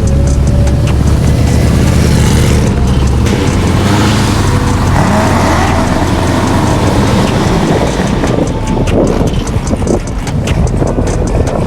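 A performance car's exhaust running loud, from a Camaro or Corvette, swelling into a louder, rougher rush about four to seven seconds in. A music beat plays faintly underneath.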